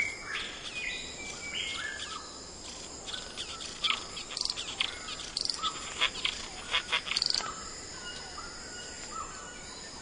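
Rainforest birds calling over a steady high insect buzz: a few short whistled notes at first, then a quick run of sharp, clicky calls around the middle.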